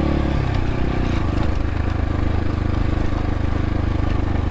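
X-Pro Templar X 250 dirt bike engine running, easing off to low revs about a second in and then running steadily.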